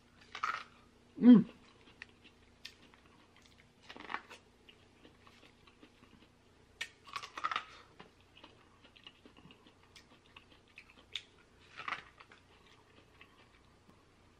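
Close-miked eating: chewing and lip smacks on king crab meat, with scattered small clicks of crab shell. A short hummed "mm" about a second in is the loudest sound.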